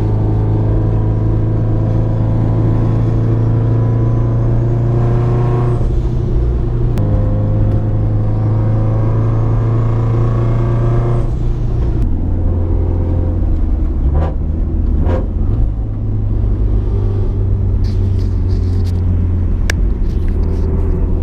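Car engine running at steady revs while driving. The note breaks off briefly about six seconds in and settles at a lower pitch about twelve seconds in, with a few light clicks later.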